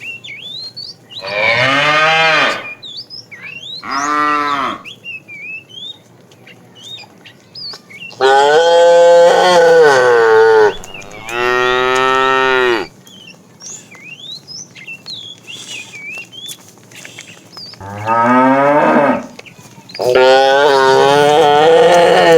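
Cattle mooing: six long, loud moos, each bending down in pitch as it ends, with short pauses between them.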